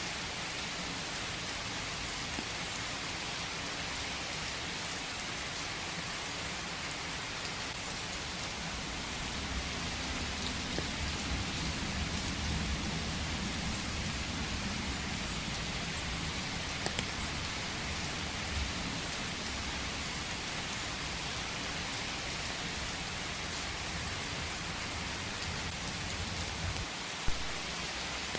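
Steady rain falling in a forest, an even hiss of many drops. A low rumble of distant thunder swells about a third of the way in and fades a little past the middle, and a single sharp drop-like tap sounds near the end.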